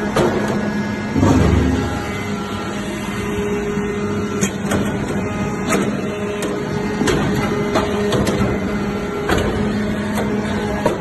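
Shaving baler running: a steady motor-and-pump hum with scattered clicks and knocks, and a heavier low thud about a second in.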